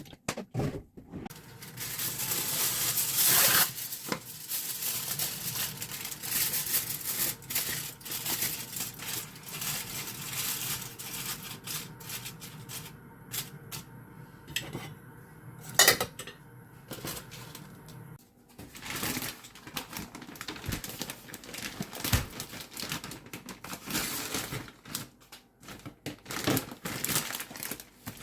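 Kitchen handling sounds: dishes, pots and utensils clinking and knocking in an irregular series of light impacts.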